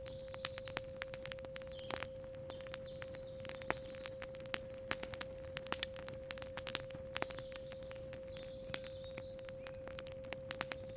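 Campfire crackling with frequent sharp pops, over a steady 528 Hz tone, with small birds chirping now and then.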